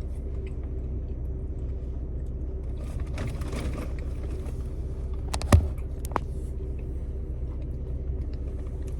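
Steady low rumble of a car cabin with the engine running, with a brief rustle about three seconds in, a sharp knock about five and a half seconds in and a lighter click just after.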